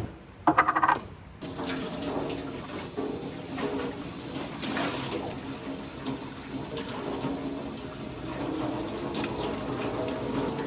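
Water running steadily, like a tap or a stream. A brief loud sound comes about half a second in, before the water sound settles in.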